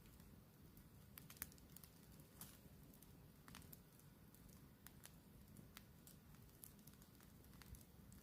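Faint campfire crackling: sparse, irregular pops and snaps over a low steady background hiss.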